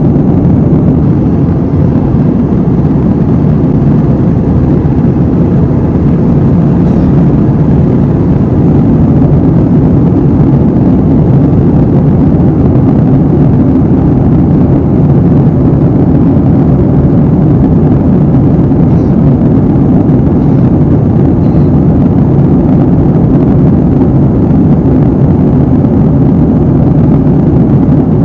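Airliner cabin noise in flight: the steady, loud hum of jet engines and airflow heard from a window seat, heaviest in the low range, with a faint thin high whine above it.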